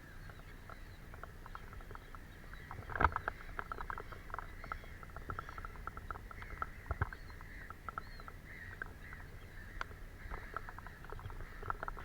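Water birds chattering: a dense run of short squeaky calls and chirps, with a sharper click about three seconds in.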